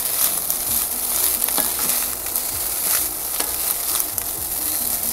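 Fried rice with egg and luncheon meat sizzling in a nonstick wok while a spatula stirs and tosses it. Frequent short scrapes and taps of the spatula sound against the pan over a steady sizzle.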